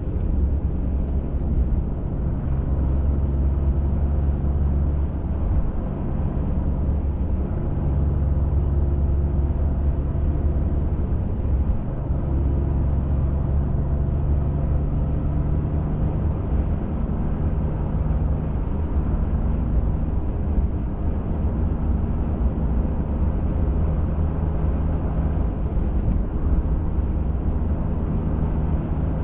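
A pickup truck driving a trail, heard from inside the cab: a steady low engine and road rumble whose engine note steps up and down a few times as the speed changes.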